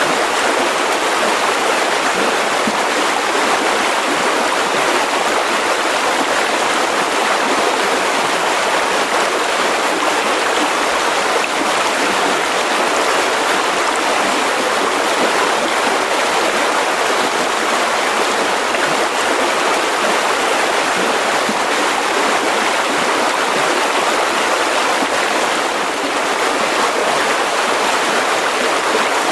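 Mountain river rushing over rocks, a steady even splashing rush without pauses.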